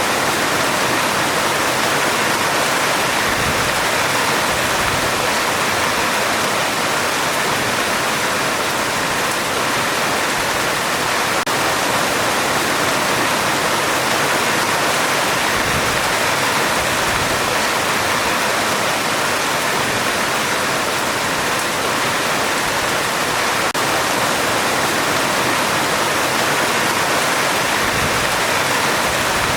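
Heavy rain falling on a metal roof: a steady, dense hiss that does not change.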